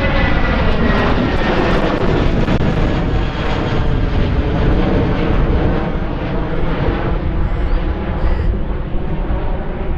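Jet airliner engines roaring past with a deep rumble, the whine falling in pitch as the aircraft goes by.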